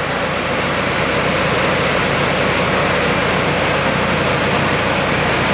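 Loud, steady rushing noise with a low drone beneath it, swelling slightly and then holding even.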